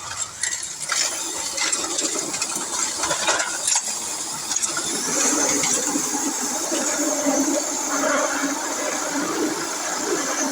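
RC pulling truck running flat out, dragging a weighted sled along a dirt track, its motor whine mixed with tire spin and a spray of loose dirt and grit clicking. The wheels are losing traction as the sled bogs it down.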